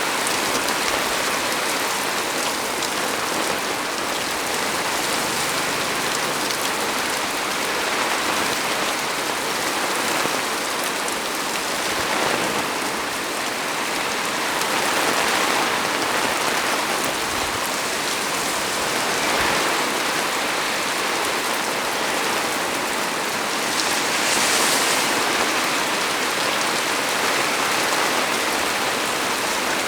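Heavy rain falling steadily, a dense even hiss of drops on leaves and surfaces, swelling a little now and then.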